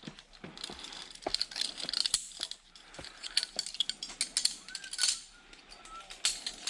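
Metal zipline gear clicking and clinking irregularly: carabiners and pulley trolley being handled and unclipped on the platform.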